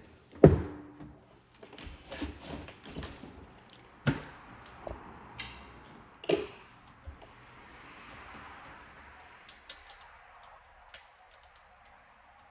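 Irregular knocks, taps and clicks of hard objects being handled and set down, the loudest about half a second in, with others about four and six seconds in.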